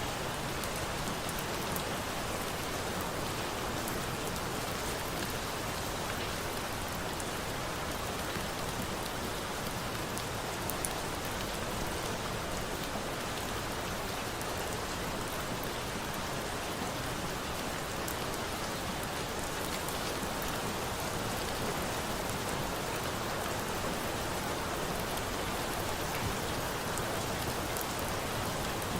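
Steady rain falling on a surface, an even hiss with a few faint clicks now and then.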